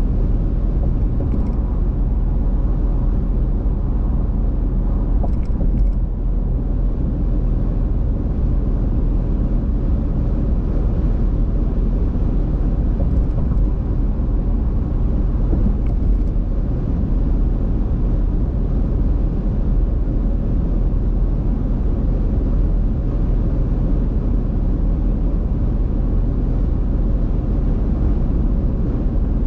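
Car on the road: a steady, low rumble of engine and tyre noise.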